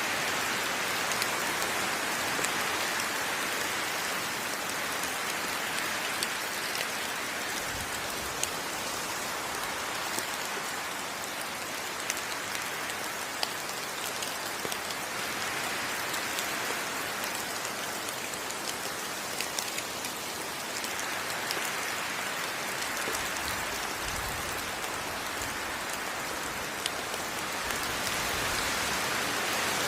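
Steady heavy rain falling on foliage, an even hiss with scattered sharper drop hits and a few low thuds.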